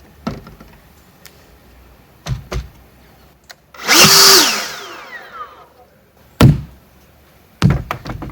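EGO LB4800 cordless leaf blower, fitted with a cheap aftermarket BLDC motor controller, given one short blast: the fan comes up to speed almost at once, with no soft start, then winds down with a falling whine. A few sharp knocks come before and after it, one of them as loud as the blast.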